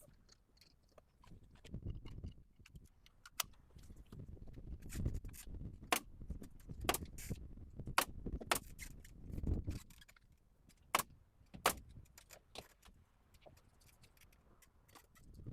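Hand tools and building materials being handled during carpentry work: a string of sharp metallic clinks and clicks with dull knocks, busiest in the middle and thinning out near the end.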